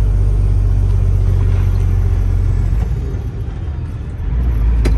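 Semi-truck heard from inside the cab while driving: a steady low rumble of engine and road noise that drops for about a second and a half midway, then comes back, with a single click near the end.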